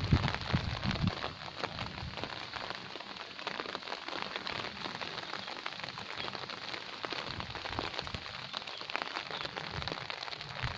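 Steady rain pattering, a dense hiss of fine drops. In the first second there is also a low rumble of wind buffeting the microphone.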